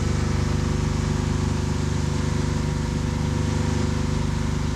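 A boat's engine running steadily, a low pulsing drone that holds even throughout.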